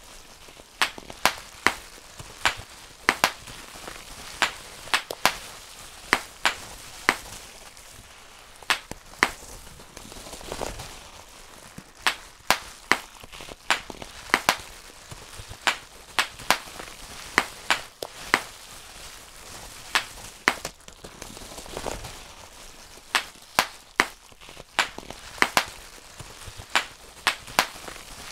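Bubble wrap being popped one bubble after another: sharp, loud snaps in irregular runs of one to three a second, with brief lulls about every ten seconds.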